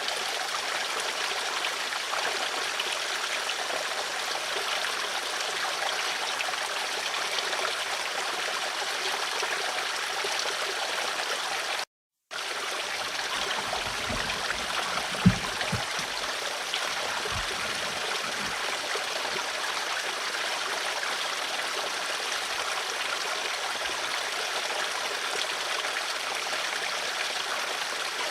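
Flowing water of a stream, running and trickling steadily. The sound cuts out completely for a moment about twelve seconds in, and a few low thuds follow, including one sharp knock about three seconds after the gap.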